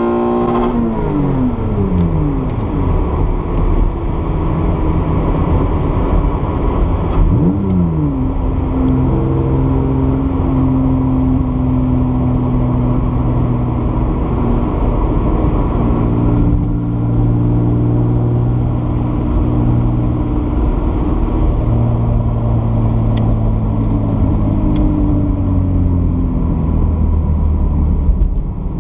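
In-cabin sound of a Toyota MR2's swapped-in 2GR-FE 3.5-litre V6 as the car slows down: the engine note falls sharply just after the start as the throttle is lifted, dips and then jumps back up in pitch around eight seconds in with a gear change, then sinks slowly while the car decelerates, over steady tyre and road noise.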